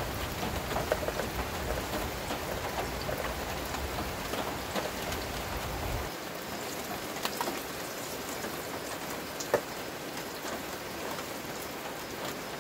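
Heavy rain pouring steadily onto the shelter, with one sharp knock about nine seconds in.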